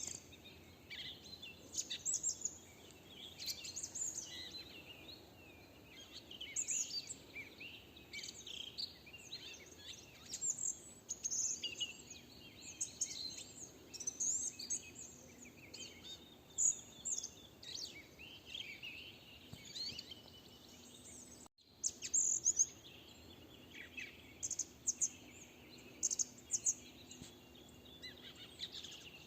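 Chorus of several songbirds singing and chirping at once, with many short high trills and calls overlapping throughout.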